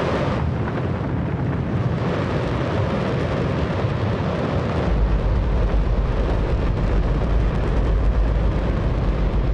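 Space Shuttle main engine firing on a static test stand: very loud, continuous rocket noise. A heavier deep rumble joins about five seconds in.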